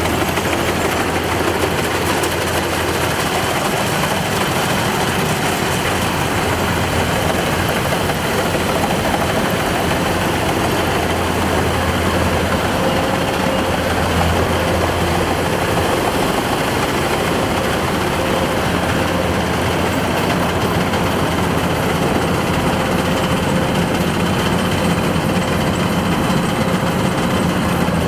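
Kubota DC-105X combine harvester running steadily, its diesel engine and machinery giving a loud, even drone.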